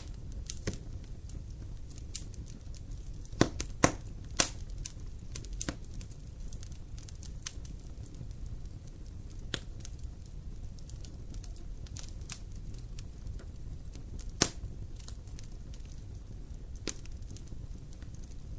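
Wood fire in a fireplace crackling, with irregular sharp pops over a low steady rumble; a few louder pops come around four seconds in and again near fifteen seconds.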